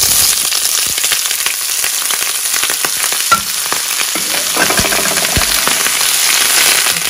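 Parboiled offal frying in hot oil in a wok: a loud, steady sizzle with small crackles throughout, as the pieces are stirred with a wooden spatula.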